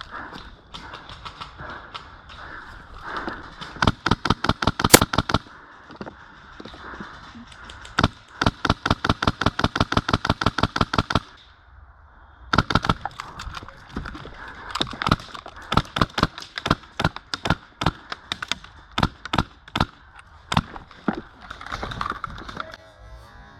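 Airsoft guns firing: two full-auto bursts of about nine shots a second, a short one and a longer one of about three seconds, then scattered single shots and short strings.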